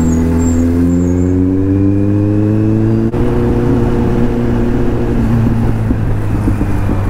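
Kawasaki Z800's inline-four engine pulling under acceleration, its pitch climbing steadily for about three seconds, then dropping suddenly as it shifts up a gear and running on steadily.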